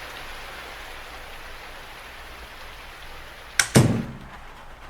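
Steady rain hiss through an open door, then the door shut with two quick thuds a little over three and a half seconds in, after which the rain sound drops to a muffled background.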